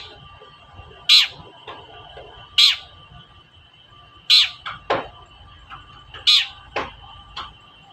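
Long-tailed shrike (cendet) giving agitated, harsh 'toet-toet' calls, each short and loud, repeating about every one and a half seconds. Two of them fall sharply in pitch. A faint steady high tone runs underneath.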